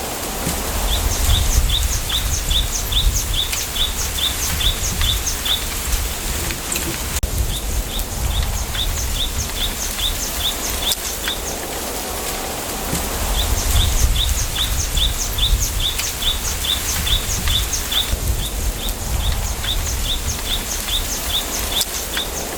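Bamboo forest ambience: a bird repeating short, high chirps about three a second, in runs of several seconds with short pauses between, over a steady low rumble of wind.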